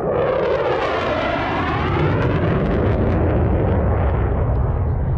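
Military fighter jets flying past: a loud rushing jet whine that sweeps down and back up in pitch, then a deep rumble that builds about two seconds in.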